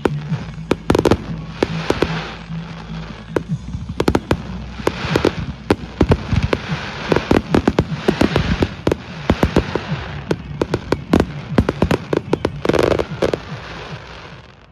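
Fireworks display: many sharp, irregular bangs and crackles as shells burst in quick succession. A low steady hum runs under the first three seconds.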